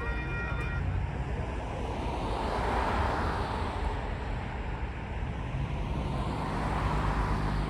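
A train horn's chord of steady tones cuts off about a second in, followed by a steady rushing rumble that swells and fades twice.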